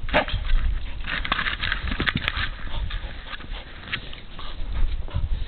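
A dog scrambling about in snow after a ball, with irregular scuffing, sniffing and a couple of sharp clicks. A steady low rumble of wind on the microphone runs underneath.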